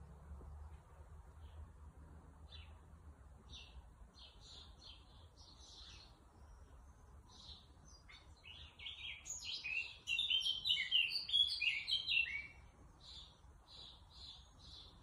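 Small birds chirping: a string of short, repeated chirps, with a louder, busier burst of rapid chirping lasting about four seconds past the middle.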